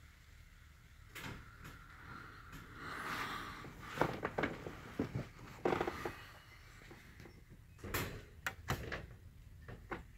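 Irregular knocks and clicks, several in quick succession about four seconds in and again about eight seconds in, over faint background noise.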